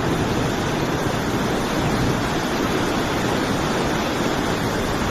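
A steady, loud rushing noise with no tone in it, spread evenly from deep to high and unchanging throughout.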